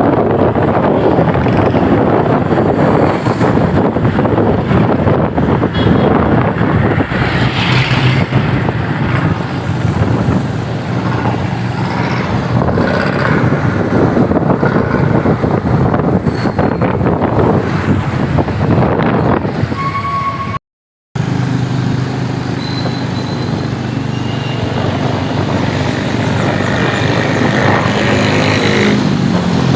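Motorcycle riding on the road: engine running under a steady rush of wind and road noise, with passing traffic. The sound cuts out completely for about half a second around two-thirds of the way in.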